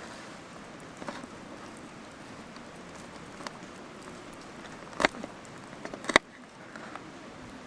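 Wood fire burning with a low steady hiss and a few sharp pops, two louder snaps about five and six seconds in.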